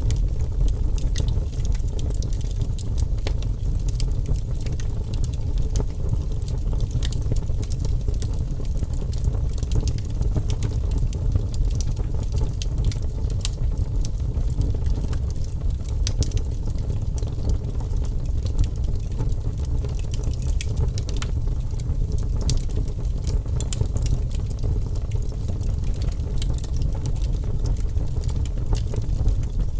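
Wood fire burning in a fireplace: a steady low rumble of flame with frequent sharp crackles and pops from the burning logs.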